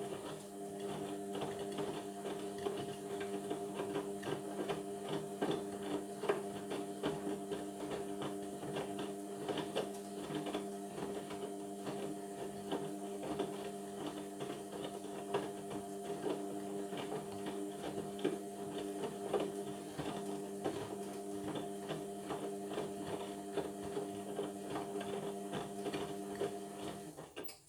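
Indesit washing machine running a Cotton 60 wash, its drum motor turning the drum in one wash tumble: a steady motor hum with rapid small clicks throughout, stopping abruptly near the end.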